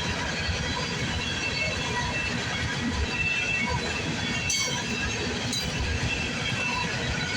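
Empty coal train's hopper cars rolling past: a steady rumble and clatter of wheels on rail, with short high-pitched squeals from the wheels now and then.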